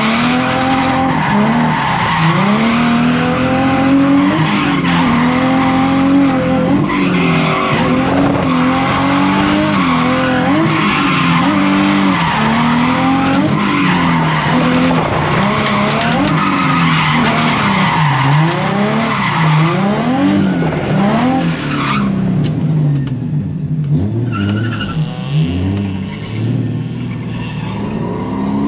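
Drift car's engine revving up and down over and over while the tyres skid and squeal through slides. About three-quarters of the way through, the tyre noise stops and the engine settles to a lower, steadier running.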